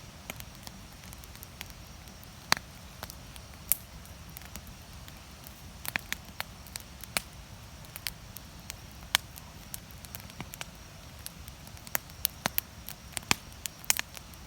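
Wood campfire crackling, with irregular sharp pops of burning firewood over a steady low rumble. The pops come more often near the end.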